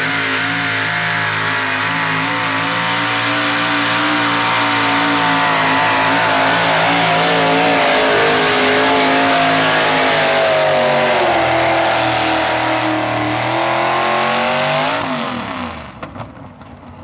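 Truck-pull truck's engine running loud at high revs under load, its pitch wavering. About fifteen seconds in the pitch falls and the engine noise drops away.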